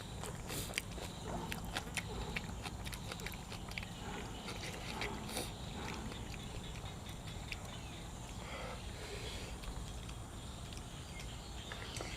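A person chewing food close to the microphone, with wet, clicking mouth noises that are densest in the first couple of seconds.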